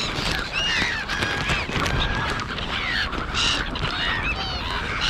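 A feeding flock of black-headed gulls and crows calling over one another: many short, harsh, arching calls in quick succession.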